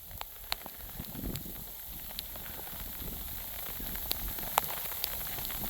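Sleet falling steadily as a dense hiss, with sharp ticks of single ice pellets striking close by, a handful of them over a few seconds.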